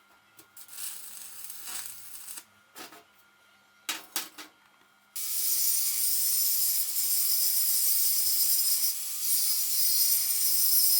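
A few light knocks and rubbing of parts being handled, then about five seconds in a power tool starts working metal, running steadily with a bright hiss over a steady hum.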